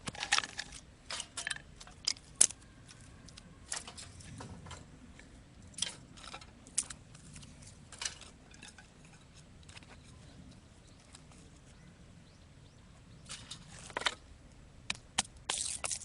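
Thin wood being split and snapped into kindling: irregular sharp cracks and clicks, several close together in the first few seconds, a quieter stretch in the middle, then a cluster of snaps near the end.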